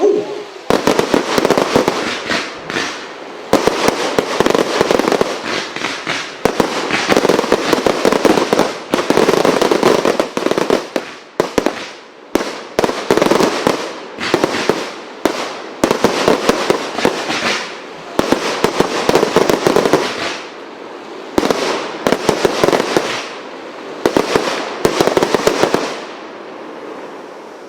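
Firework barrage box (cake) firing a rapid, sustained barrage of bangs in volleys with brief lulls, stopping near the end.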